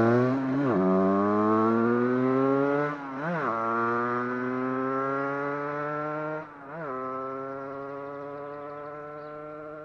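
Husqvarna SM 125 two-stroke supermoto engine accelerating hard through the gears. Its pitch climbs in each gear, with three upshifts, and the sound gradually fades.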